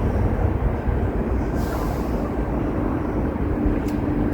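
Wind buffeting the microphone: a steady low rumble, with a brief hiss just under two seconds in.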